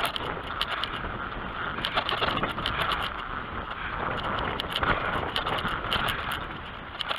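BMX bike ridden along a dirt track: steady tyre and wind noise with frequent short clicks and rattles.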